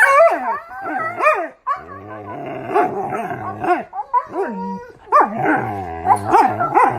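A dog whining and barking in a run of pitched calls that slide up and down, with a longer drawn-out whine in the middle.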